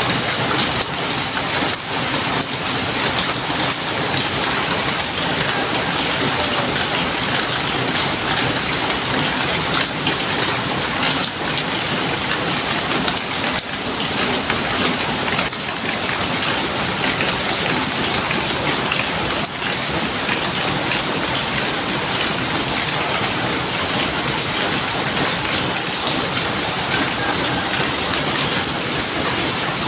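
Heavy rain falling steadily, a dense even hiss of rain striking surfaces with the patter of many individual drops.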